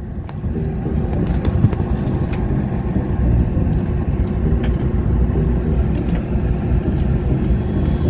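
Steady low rumble of a running vehicle, getting a little louder about a second in, with a faint steady hum and a few light clicks.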